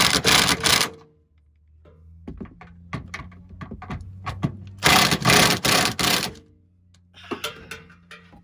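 Tools working on car exhaust hardware: two bursts of rapid mechanical rattling, one at the start and one about five seconds in, with scattered clicks and knocks between them.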